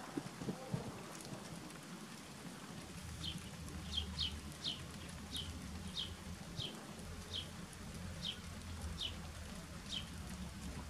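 A bird repeating a short falling chirp about every two-thirds of a second, starting about three seconds in, over a low steady rumble.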